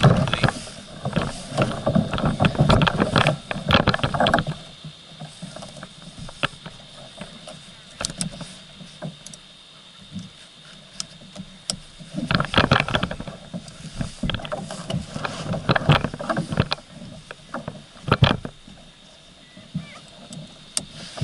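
Irregular knocks, clatters and rustling from a person shifting about in a plastic folding kayak on the water: a dense stretch over the first four seconds, then quieter, with further clusters of knocks around eight seconds in, again from about twelve to seventeen seconds, and once more near eighteen seconds.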